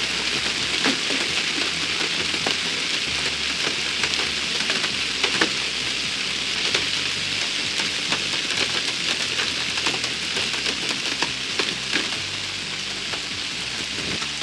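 Hail pelting down: a dense hiss of falling ice, with many sharp clicks of individual hailstones striking hard surfaces. It eases slightly near the end.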